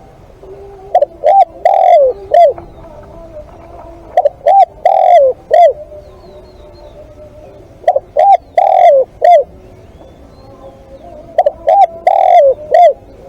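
Spotted dove cooing: four phrases of several coos each, repeating about every three and a half seconds, each with a longer, falling note in the middle.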